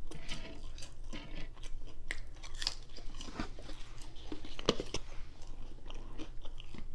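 Close-miked chewing of a crispy fried cod sandwich: a steady run of small wet smacks and crunches. One louder click comes a little under five seconds in.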